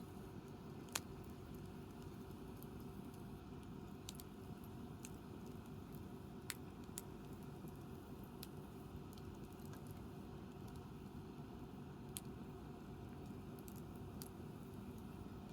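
Wood campfire crackling: scattered sharp pops every second or two, the loudest about a second in, over a faint steady low rumble.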